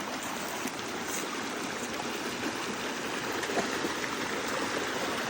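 A mountain stream flowing steadily, with small gurgles in the running water.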